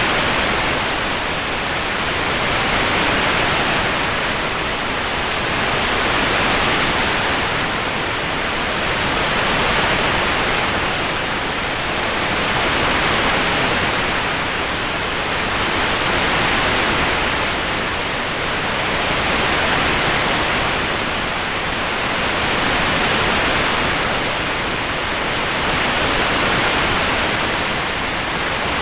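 Steady rain sound, an even hiss with no separate drops, swelling gently about every three seconds.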